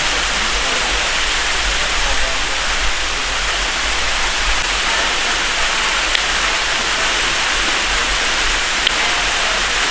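Waterfall pouring: a loud, steady rush of falling water with no let-up.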